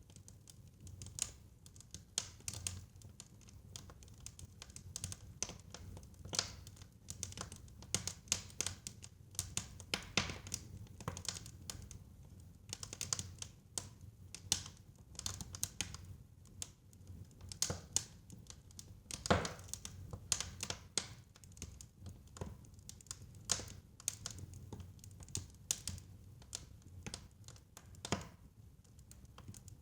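Fire crackling in a fireplace: irregular pops and snaps over a low steady rumble, with one louder pop a little past the middle.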